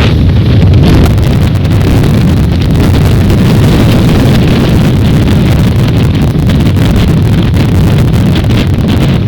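Strong gusty wind buffeting the microphone: a loud, continuous low rumble with crackle over it.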